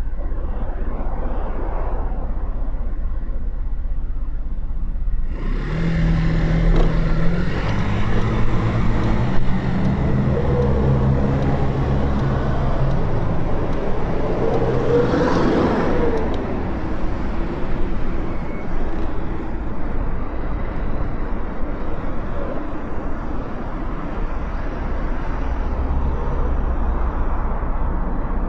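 Motorcycle riding in city traffic, recorded on board: a steady low wind and road rumble, and from about five seconds in the engine note climbs in steps as the bike accelerates through the gears. About halfway through there is a louder swell of traffic noise.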